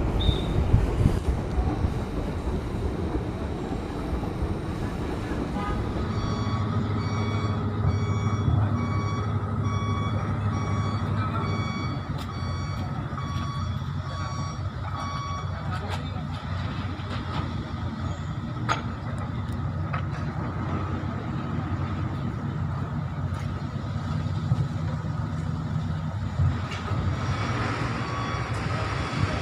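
Truck engine running steadily, with a reversing alarm sounding a string of even, repeated beeps from about six seconds in until about sixteen seconds, and faintly again near the end.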